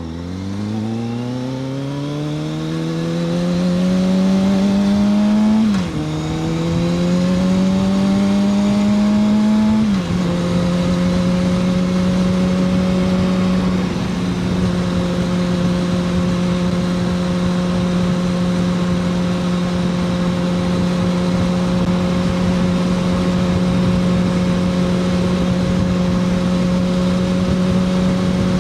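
A 2006 Kawasaki ZX-6R 636's inline-four engine pulling away and accelerating, its pitch climbing, with upshifts about six and ten seconds in. It then settles to a steady cruise, with a slight dip a few seconds later and steady wind rush throughout.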